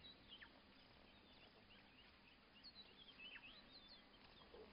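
Near silence: faint outdoor ambience with scattered, faint high bird chirps, most of them past the middle.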